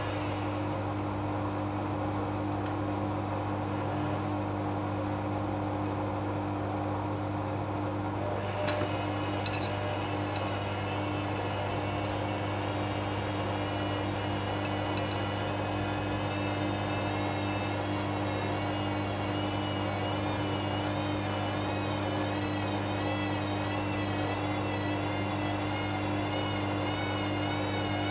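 Arçelik 5900E washing machine, built by Bauknecht, spinning after the second rinse: a steady motor hum, with three sharp clicks about nine to ten seconds in, after which a wavering high whine comes in on top.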